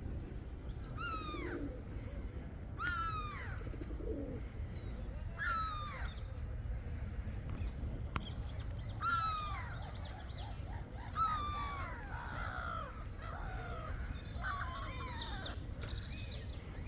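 Gulls calling again and again, each call a harsh note falling in pitch, some overlapping, over a steady low background rumble.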